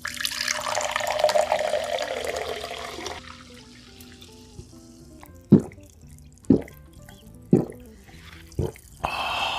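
Water running from a kitchen tap for about three seconds, then four dull knocks about a second apart.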